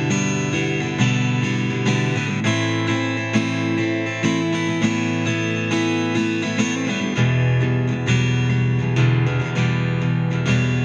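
Acoustic-electric guitar playing strummed chords in an instrumental piece, with a change to a deeper chord about seven seconds in.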